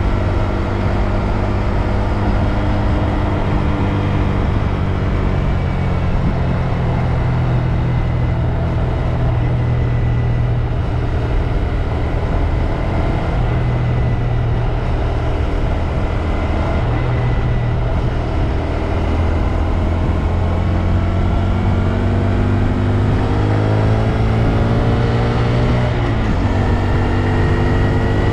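2022 Honda Grom's 125 cc single-cylinder engine running under way with a loud low drone. Its pitch falls over the first few seconds, holds fairly level, then rises steadily through the last third, with a thin high whine tracking the engine speed.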